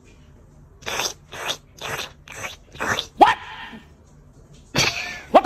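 A dog vocalising: five short breathy barks about half a second apart, then a sharp rising yelp, and another bark with a rising yelp near the end.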